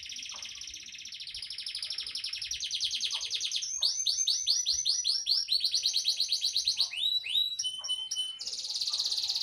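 Domestic canary singing a long, varied song: a fast rolling trill, then series of repeated swooping notes, a held whistle, and another trill.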